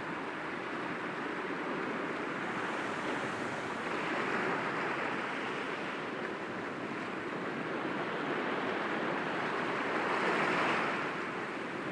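Sea waves breaking gently against rocks, a steady wash of surf that swells twice, about four seconds in and again near the end.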